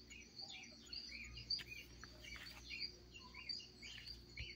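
Small birds chirping: a busy run of short, high chirps, each dipping in pitch, a few every second.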